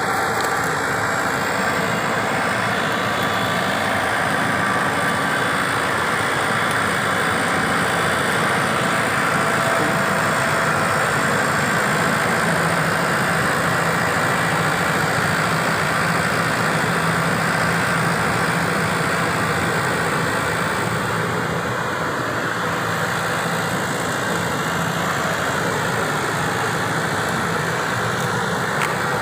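Turbo T600 engine-driven pesticide sprayer running steadily, a continuous engine and blower noise as it sprays.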